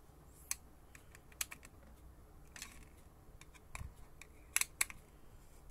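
Irregular sharp clicks and small knocks as a screwdriver drives screws back into the plastic cover of a K5 sanitizer spray gun.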